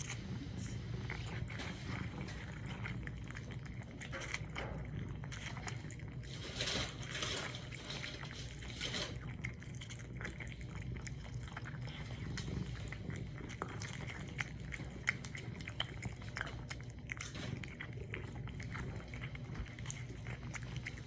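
Wet cat food in gravy: many small irregular wet clicks and ticks, over a steady low hum.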